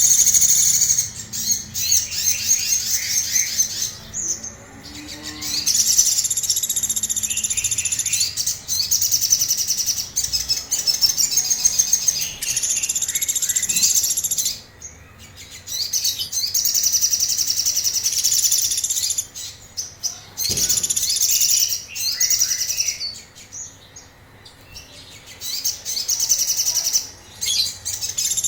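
Sogon bird singing in excited, harsh runs of rapid high-pitched notes, each run lasting a few seconds with short pauses between them. A brief knock sounds once near the middle.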